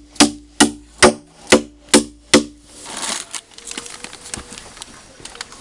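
Six sharp knocks at an even pace of about two a second, each with a short low ringing; they stop about two and a half seconds in, followed by a rustle and a few faint clicks.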